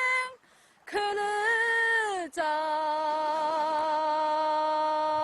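A woman's unaccompanied singing voice holding long, slow notes that step down in pitch. There is a short breath pause about half a second in and another brief break a little after two seconds.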